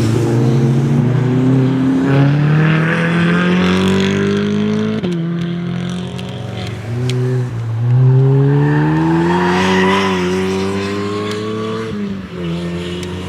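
A supercar's engine accelerating hard on a sprint course. The revs climb steadily, drop with an upshift about five seconds in, climb again and shift once more near the end.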